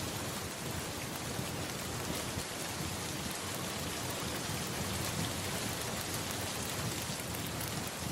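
Steady rain falling, with a low thunder rumble underneath.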